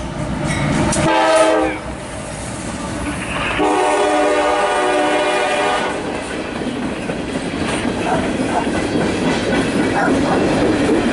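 CSX freight locomotive horn sounding a short blast about a second in, then a longer blast, over the steady rumble and wheel clatter of a passing freight train.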